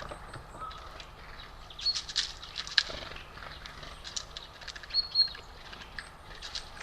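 Small birds at a feeder giving short, high chirps, twice in a pair near the middle and end, mixed with scattered sharp clicks and taps.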